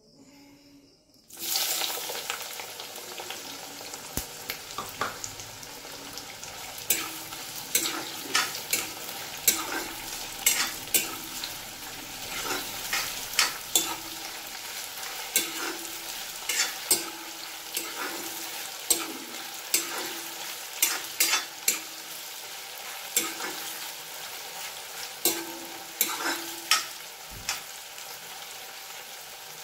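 Sliced onions frying in hot oil in a cast-iron kadai: the sizzle starts suddenly about a second in as they go into the oil, then runs steadily while a steel ladle stirs them, clinking and scraping against the pan about twice a second.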